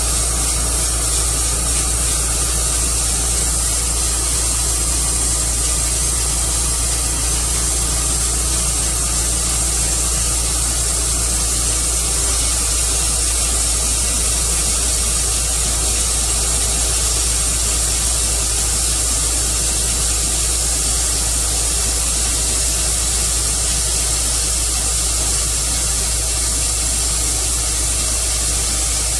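Tru Cut portable band sawmill running, a steady loud rushing noise that does not change.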